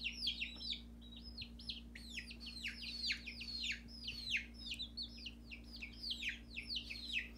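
Baby chicks peeping: a continuous run of short, high chirps, several a second, each falling in pitch.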